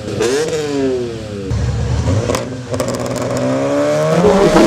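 Car engine revved in neutral: a quick rev that slowly falls away, a steadier stretch, then the revs climbing again near the end.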